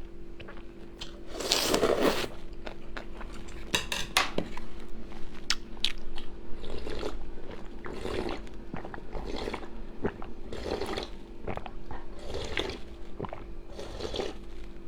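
A person eating close to the microphone: bites and chewing with crunchy, wet mouth sounds coming in bursts every second or so, over a steady low hum.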